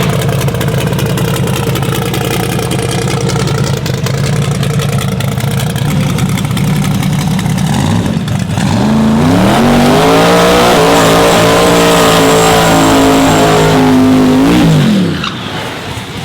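Twin-turbo truck engine revved hard and held at high revs. It drops off about eight seconds in, climbs again and holds steady, then falls away near the end.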